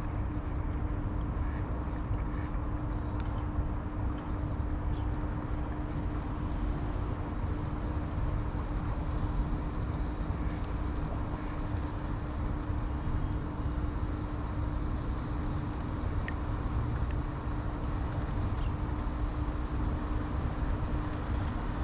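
Steady low rumble of distant engine noise with a constant low hum, unchanging throughout.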